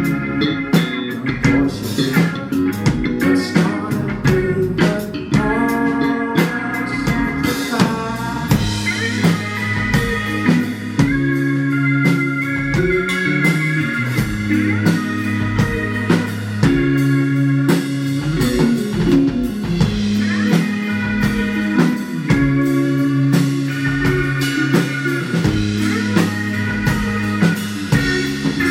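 Live rock band playing loudly: drum kit, bass and electric guitar, with a melodic lead line that bends in pitch.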